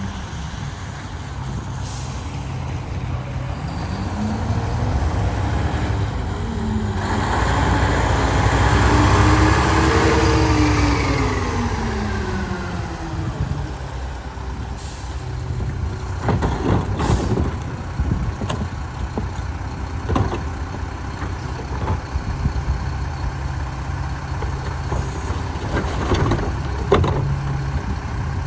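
Garbage truck's diesel engine running, revving up and falling back about a third of the way through. There are short air hisses from the air brakes and sharp metallic clanks and knocks later on.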